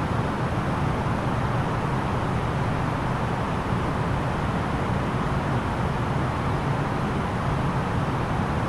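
Steady cabin noise inside an Airbus A330-900neo airliner in flight: an even rush of airflow over the fuselage with the low hum of its Rolls-Royce Trent 7000 engines.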